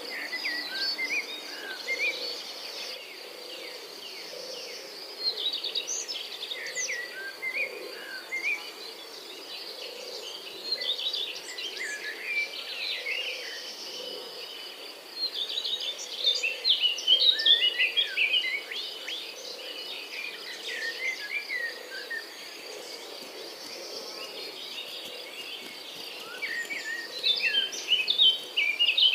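Small songbirds chirping and twittering in bouts of quick, varied notes over a steady high insect trill.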